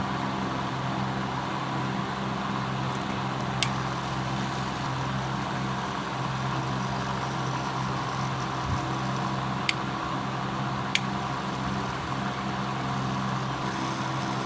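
Small electric motor of a homemade mini mixer grinder running at a steady speed, a constant hum, with three sharp clicks in the middle stretch.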